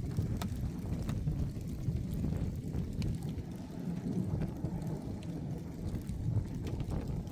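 Thunderstorm rain, with scattered drops ticking over a steady low rumble.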